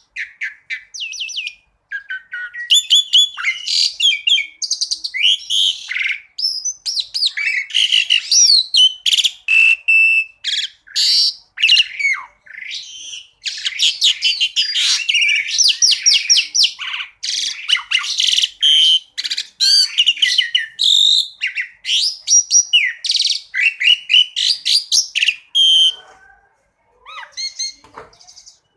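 Asian pied starling (jalak suren) song from a masteran bird-training recording. It is a dense, varied run of loud whistles, chatters and rapid trills with only brief gaps, easing into a short lull near the end.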